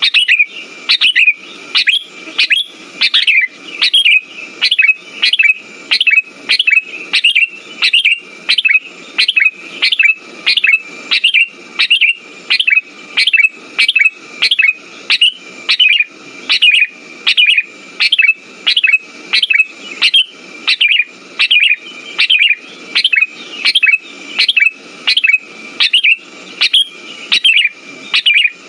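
Sooty-headed bulbul (kutilang) calls, short sharp notes repeated at an even, quick pace over a steady high tone: lure song used to set off a silent bulbul.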